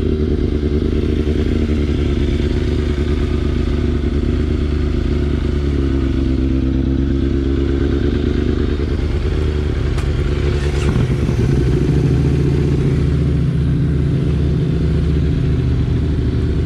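Motorcycle engine running steadily, its note shifting lower about eleven seconds in.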